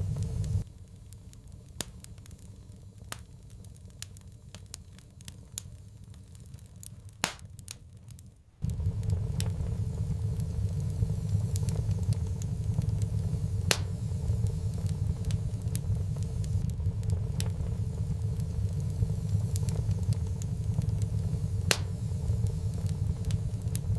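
Wood fire crackling in a fireplace, with scattered sharp pops and snaps over a low, steady rumble. The rumble drops out abruptly just after the start, leaving only the crackle for several seconds, then cuts back in just as suddenly.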